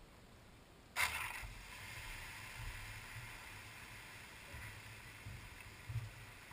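Microwave oven switching on about a second in, then running with a faint, steady hum.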